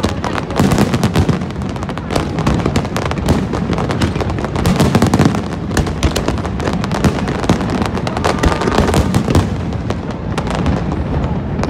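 Aerial fireworks display: a continuous barrage of cracks and crackling bursts, with deep booms underneath.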